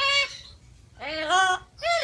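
Pet parrot vocalizing in short calls that rise in pitch and then hold, one at the very start and a longer one about a second in, with another beginning near the end.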